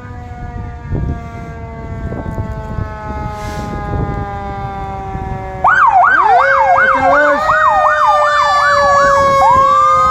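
Emergency vehicle sirens passing in a parade. First a steady siren tone slowly winds down. Then, a little past halfway, a much louder siren suddenly starts a fast up-and-down yelp, about two to three sweeps a second, and switches to a long rising wail near the end.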